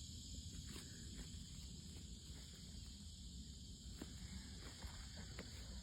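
Steady high-pitched insect chorus, crickets or similar, running faint and unbroken, with a few faint clicks.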